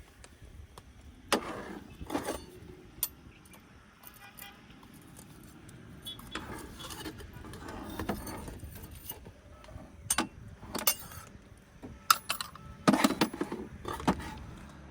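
Irregular clinks and knocks of objects being handled, with a rapid run of sharp clatters near the end.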